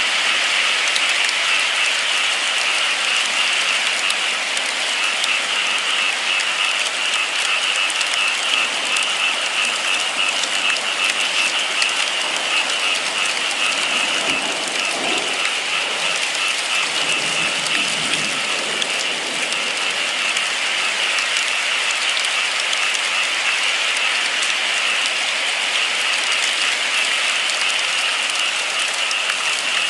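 Steady rain falling, an even hiss of many small drops that does not let up.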